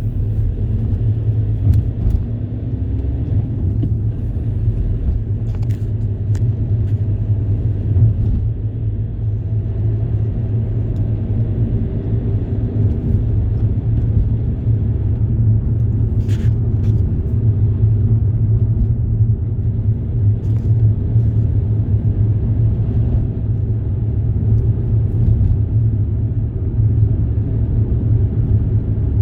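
Steady low rumble of a road vehicle in motion, with a few faint brief clicks.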